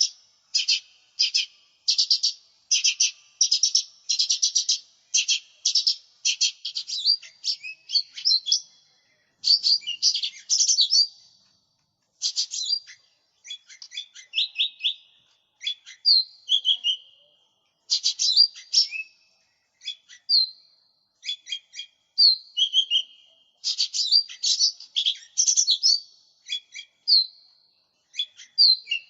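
Cucak ijo mini leafbird singing a long, varied song: fast rattling trills in the first several seconds, then a run of whistled notes and short trills with brief pauses between phrases.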